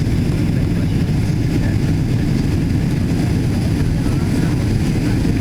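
Steady low rumble of engine and airflow noise inside the cabin of a Boeing 777-200ER airliner, even in level throughout.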